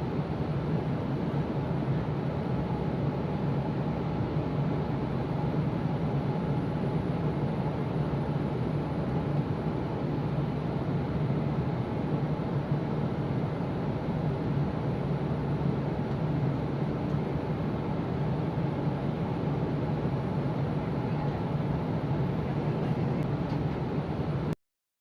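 Steady noise of an airliner's cabin in flight: a constant low drone of engines and airflow. It cuts off abruptly near the end.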